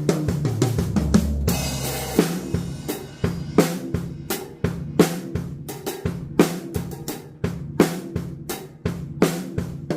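Odery acoustic drum kit played in a sound check: a cymbal wash about one and a half seconds in, then a steady run of strong drum strokes, each with a short ringing decay.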